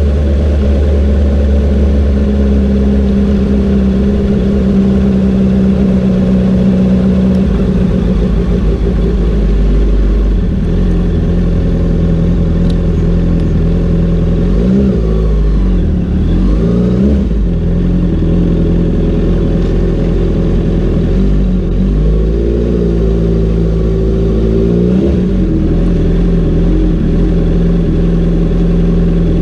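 Honda CBR650R's inline-four engine running under way, its note holding steady at first and then rising and falling with throttle and gear changes, around the middle and again later on.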